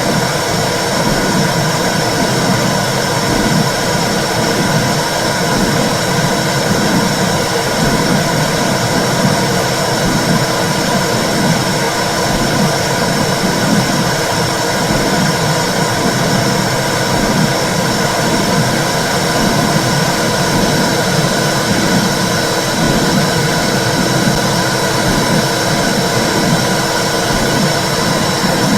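Womb sound for soothing babies: a steady, loud, low whooshing noise that keeps on without a break.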